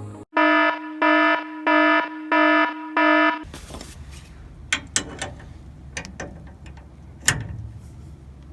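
Five loud electronic alarm beeps, evenly spaced about 0.7 s apart, followed by a few sharp clicks.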